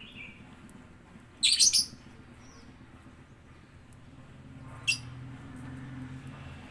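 Lovebird calling: a shrill burst of three or four quick chirps about one and a half seconds in, then a single short chirp near five seconds. A low hum builds in the second half.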